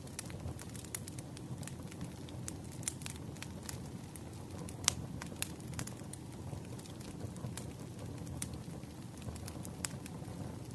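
Wood campfire crackling: irregular sharp pops and snaps over a low steady rumble, with one louder pop about five seconds in.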